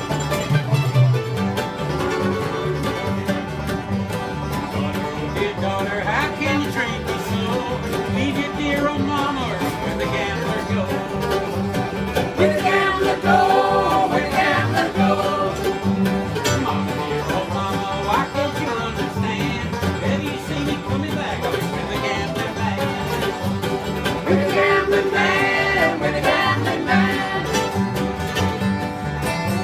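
String band music in a bluegrass style, playing a steady instrumental passage without singing.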